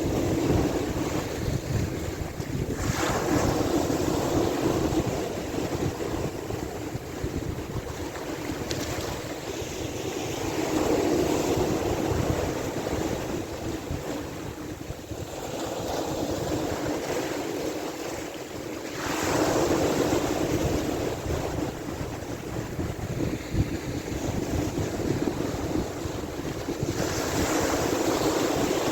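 Sea waves washing in, swelling in surges about every eight seconds, with wind rumbling on the microphone.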